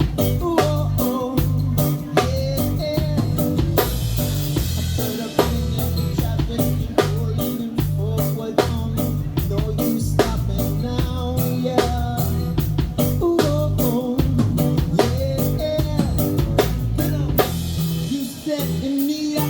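Live band playing an instrumental passage with a steady drum-kit beat, bass and guitar in an upbeat reggae-rock groove.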